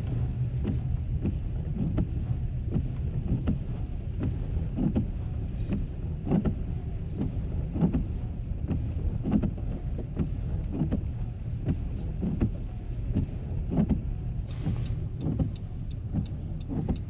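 Car cabin noise while driving: a steady low rumble with a soft knock repeating about every 0.7 seconds, and a brief hiss about fourteen seconds in.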